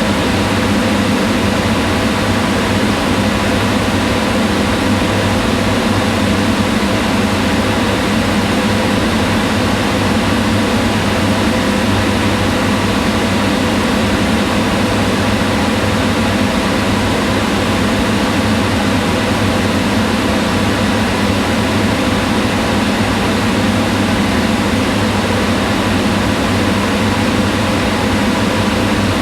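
Kitchen range hood exhaust fan running at a constant speed: a steady, unchanging whir of moving air with a low hum.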